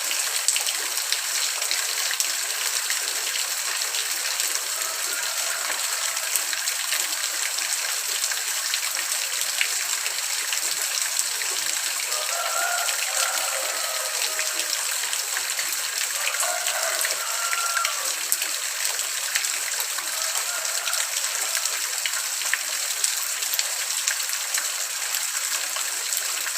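Steady rain: an even hiss of falling rain with many small drop hits.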